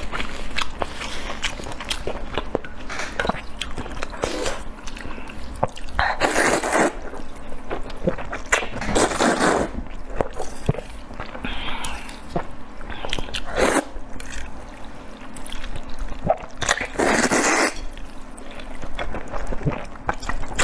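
Close-miked eating: chewing, biting and mouth sounds, with four louder rushes about a second long at intervals of three to four seconds.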